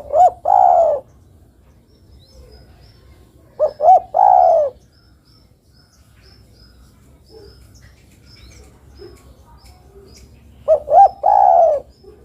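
Female spotted dove (derkuku) cooing its call to a male. It gives three phrases, each of two or three short 'kuk' notes and then one longer drawn-out coo, with pauses of several seconds between them.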